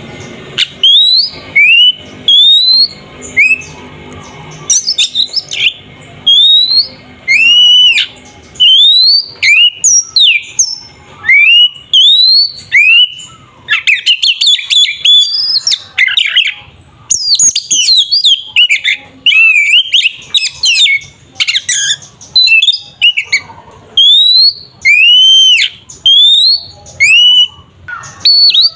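Oriental magpie-robin (kacer) singing loudly in agitated, combative 'fighting' song. It gives a steady run of clear whistled notes that swoop up and drop, about one or two a second, broken by bursts of rapid chattering phrases.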